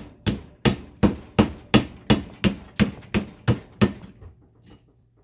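Hammer blows on a light ballast's metal case, twelve steady strikes about three a second, each with a short metallic ring, stopping about four seconds in.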